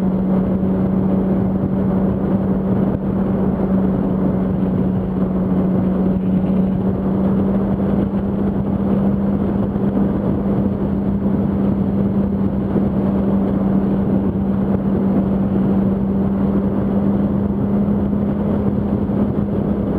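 Yamaha R1 inline-four engine running at a steady highway cruise of about 85 mph, holding one even tone, under heavy wind and road noise.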